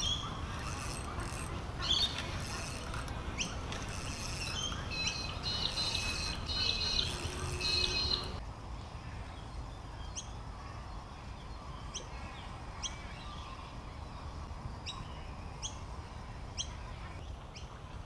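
Birds chirping and calling for about the first eight seconds. After that one bird repeats a short rising call about once a second.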